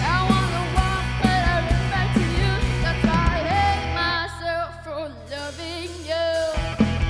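Live rock band playing, with a lead singer over drums, bass and guitar. About halfway through, the drums drop out and the voice carries on with vibrato over a held bass note, and the full band comes back in near the end.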